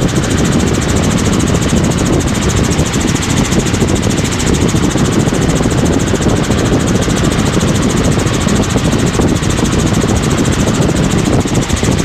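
Helicopter engine and rotor noise heard from inside the cabin in cruise flight, steady and unchanging.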